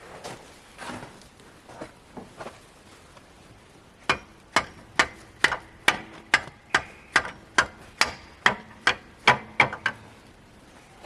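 A felling wedge used as a hammer, striking a frozen snowplow mounting pin about fourteen times in a steady rhythm of a little over two sharp, ringing metallic blows a second, starting about four seconds in and stopping near the end. Before the blows there are only faint scattered knocks.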